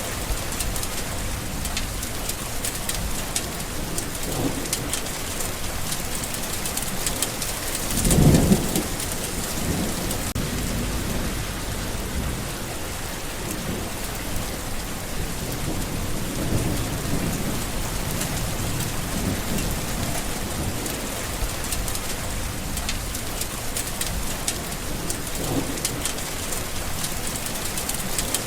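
Steady heavy rain, with low rolls of thunder rising out of it several times; the loudest rumble comes about eight seconds in.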